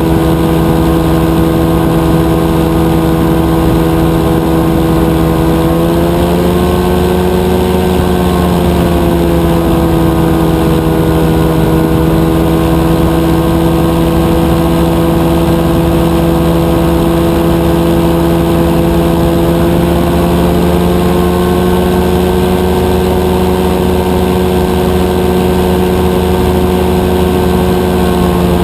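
Rotax 582 two-stroke twin engine of a powered parachute running steadily at power, its pitch rising a little around six seconds in, easing back, and rising slightly again around twenty seconds in.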